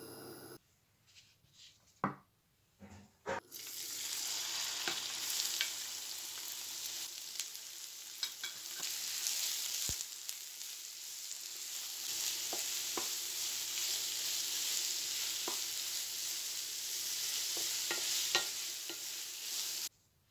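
Diced chicken breast and chopped red onion sizzling in hot oil in a nonstick frying pan, stirred with a spatula that clicks and scrapes against the pan. A few light knocks come first, then the sizzle starts about three and a half seconds in, runs steadily, and cuts off suddenly just before the end.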